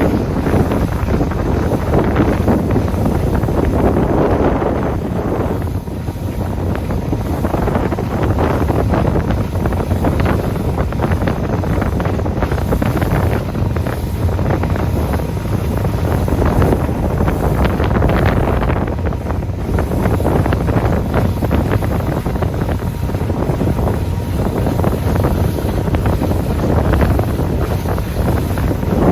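Loud, gusting wind buffeting the microphone aboard a moving boat, with a steady low rumble underneath.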